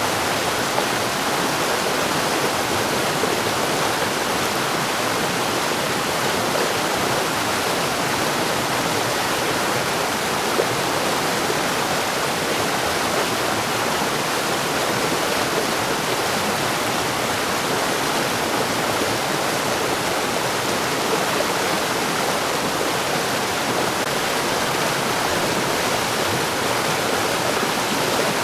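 Mountain stream flowing over rocks: a steady, unbroken rush and splash of water.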